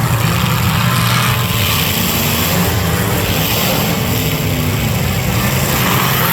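Demolition derby cars' engines running loud, with the pitch rising and falling a little as they rev.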